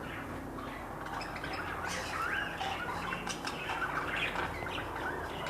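Small cage birds chirping and twittering in short, scattered calls.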